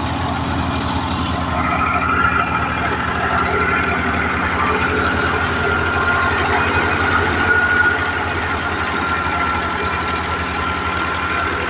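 Al-Ghazi tractor's diesel engine running steadily at low revs, with an even low throb and a thin high whine that comes in about two seconds in.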